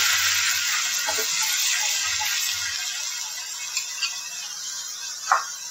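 Onion paste frying in hot oil in a pan, a steady sizzle that gradually dies down, with a spoon stirring it and a brief scrape near the end.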